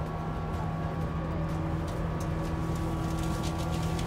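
Steady running noise inside a limited express train carriage: a low hum with a few faint ticks.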